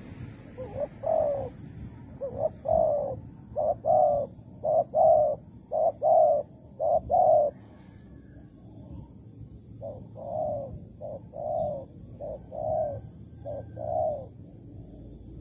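Malaysian Tekukur spotted dove, the trap's decoy bird, cooing in repeated short arched coos: a long run, a pause of about two seconds, then a shorter run.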